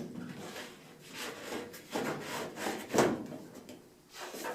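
A furnace air filter being slid into its slot in the furnace, its frame scraping and rubbing against the sides of the opening in several short pushes, the sharpest about three seconds in.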